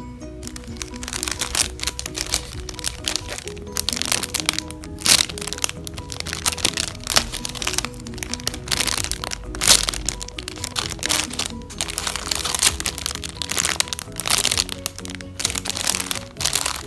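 Irregular crackling and crinkling as foam squishy toys are squeezed and handled, over background music.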